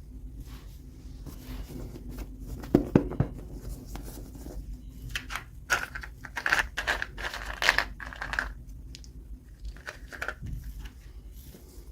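Toy packaging being torn open and crinkled by hand: a few sharp clicks about three seconds in, then a run of tearing and crinkling in the middle.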